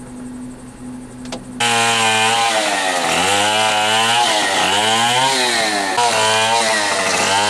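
Chainsaw starts up loud about one and a half seconds in. It then runs with its pitch rising and falling again and again as the throttle is worked, as when cutting up a storm-felled tree. Before it, a steady low hum.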